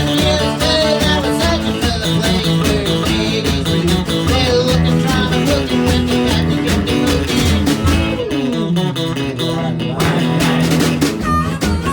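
Country band playing an instrumental break, with guitar to the fore over a steady beat and a falling run in the low notes about eight seconds in.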